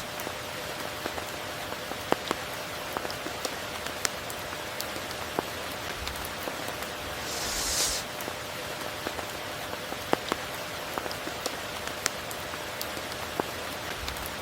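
Steady tropical rain hissing, with many individual drops ticking sharply. About halfway through, the high hiss swells for a second and falls back.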